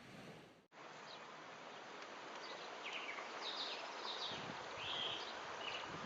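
Outdoor ambience: a steady rushing noise with scattered short, high chirps from about two and a half seconds in.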